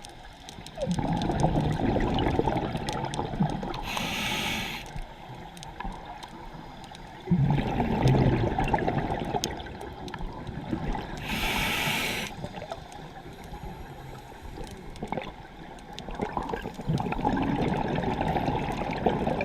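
Scuba diver breathing through a regulator underwater: two short hisses of inhaled air, each about a second long, and three longer rounds of bubbling, gurgling exhaust as the breaths are let out.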